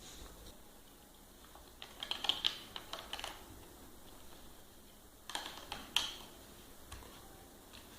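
Plastic toy building blocks clicking and rattling as pieces are handled and pressed together, in two short clusters of clicks about two and five seconds in.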